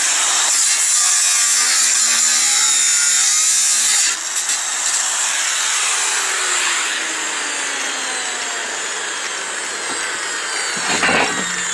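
Angle grinder cutting into 6 mm steel plate, a loud, dense grinding noise for about four seconds. The cut then eases off and the grinder's whine falls in pitch as the disc slows, with a short knock or two near the end.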